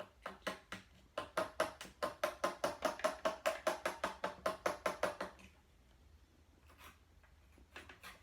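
Small toy hammer knocking rapidly on a hard-packed block of sand, about five strikes a second for some four seconds, with a few single taps before and after, chipping at the block to free a buried toy.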